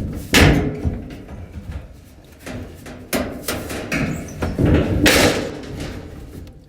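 Several knocks and scrapes of a clothes dryer's sheet-metal cabinet and panel being pushed and worked into place by hand.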